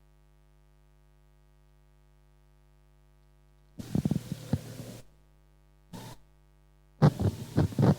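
Harsh noise music from a cassette recording: a faint steady hum in near silence, then about four seconds in an abrupt burst of distorted, throbbing noise pulses, a short stab of noise near six seconds, and a dense run of rapid throbbing pulses starting near the end.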